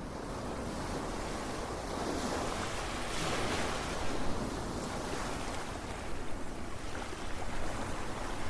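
Ocean surf: a steady wash of waves, with one wave swelling and breaking about three to four seconds in, then fizzing out.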